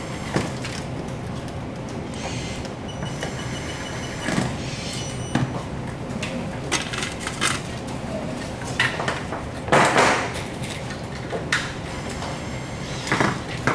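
Irregular knocks and clicks over a steady background hum, with a louder, longer clatter about ten seconds in.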